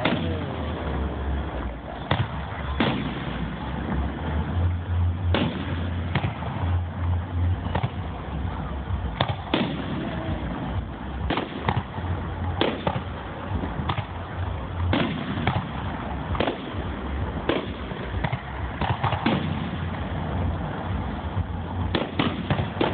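Aerial fireworks bursting in a long run of sharp bangs, irregularly spaced about one to three seconds apart, over a steady low rumble, heard through a phone microphone.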